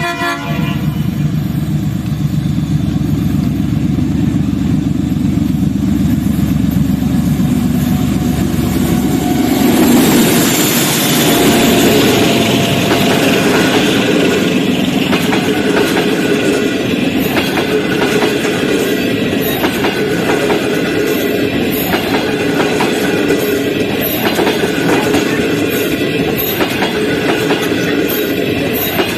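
A diesel locomotive horn blast cuts off just after the start. The DF7G-C diesel-electric locomotive's engine runs with a heavy low sound as it approaches and passes, loudest about ten seconds in. Then a long train of passenger coaches rolls by with a steady, rhythmic clickety-clack of wheels over the rail joints.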